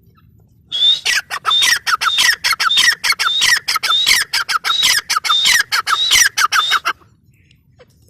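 Grey francolin (teetar) calling: a loud, harsh run of repeated phrases, each dropping in pitch, about two a second, starting about a second in and stopping about a second before the end.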